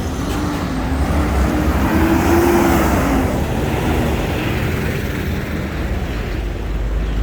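Road vehicle noise: a motor vehicle's steady rumble, with an engine note that rises and falls about two to three seconds in.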